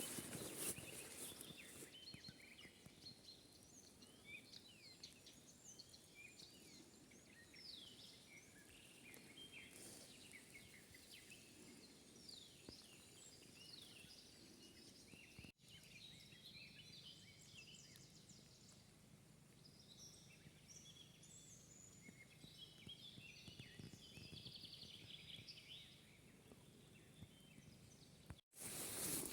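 Faint birdsong from several birds, short chirps and trills overlapping continuously over a soft background hiss, with two brief dropouts.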